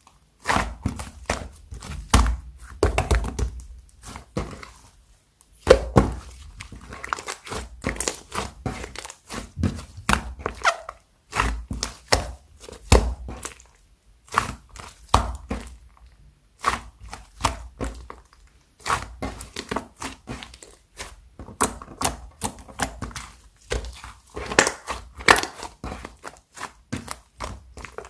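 Hands pressing, folding and stretching clear slime, giving a dense run of sticky popping clicks and crackles in quick, irregular succession, with a few short pauses.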